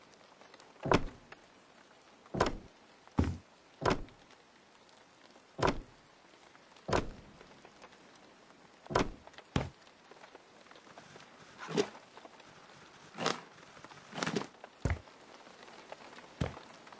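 About a dozen separate knocks and thuds at uneven intervals, each short and sharp, some coming in close pairs.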